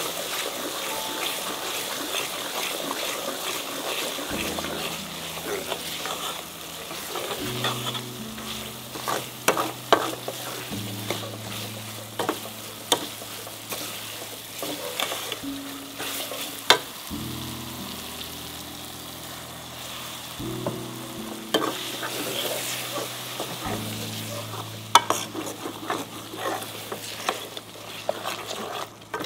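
Chicken pieces frying and sizzling in curry paste in an aluminium saucepan while being stirred, with repeated scrapes and sharp clinks of the metal spoon against the pan. Soft background music of low held chords comes in about four seconds in.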